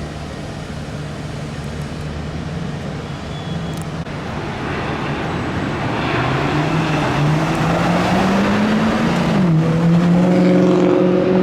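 A motor vehicle engine accelerating along the street over steady traffic noise. Its pitch climbs for a few seconds, then drops suddenly about nine seconds in, as at a gear change, and the sound grows louder toward the end.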